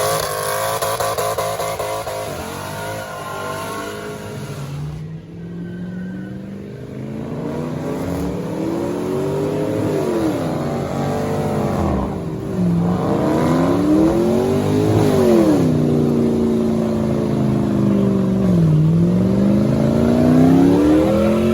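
A car engine revving hard, its pitch climbing and then dropping, three times over the second half.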